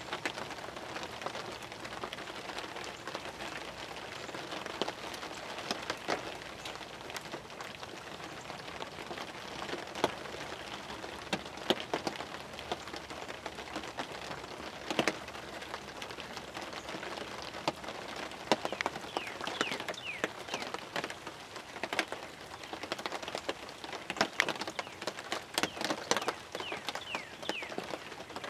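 Rain falling steadily on a hunting ground blind: a constant hiss with many sharp drop taps, the taps coming thicker near the end.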